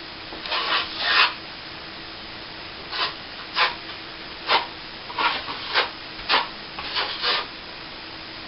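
Steel plastering trowel working cornice cement on a plasterboard ceiling patch: about a dozen short scraping strokes come in uneven bursts, with a pause of a second or so after the first few.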